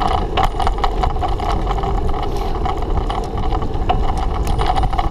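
A bicycle rolling along while being ridden: a steady rumble with scattered small clicks and rattles.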